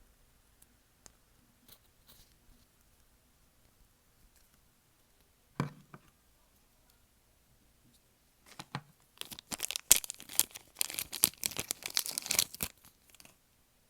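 Hands playing with slime: a few faint clicks, a single soft thud about halfway through, then a few seconds of dense sticky crackling and popping that stops shortly before the end.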